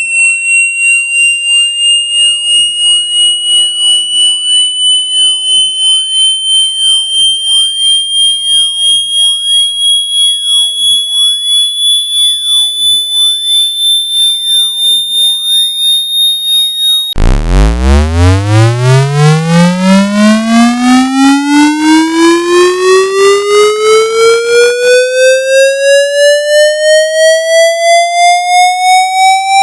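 Electronically generated speaker-cleaning tone that pulses about two and a half times a second. It first glides slowly upward at a high pitch. About two-thirds of the way through it cuts off abruptly and starts a new sweep from a deep hum, rising quickly and then more slowly to a mid-pitched tone.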